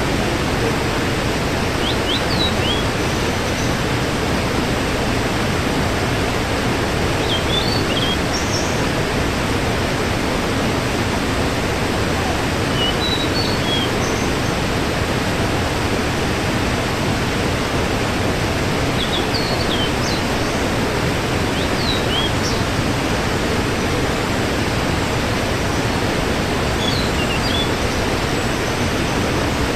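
Waterfall: a steady, unbroken rush of falling water. A few brief high chirps sound here and there over it.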